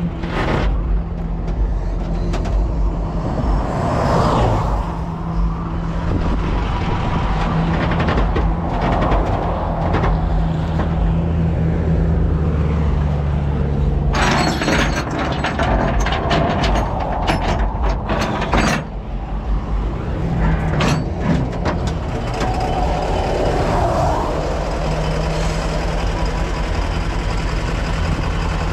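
Flatbed tow truck's engine running steadily on the road. About halfway through, a hissing, rattling noise starts suddenly, lasts about five seconds and stops abruptly.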